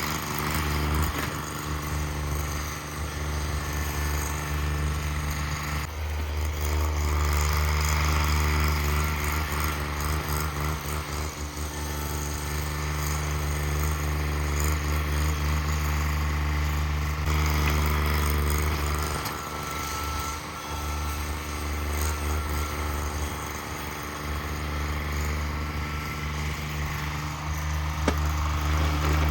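Cub Cadet 1782 garden tractor's Onan twin-cylinder engine running steadily, its level rising and dipping as the load changes.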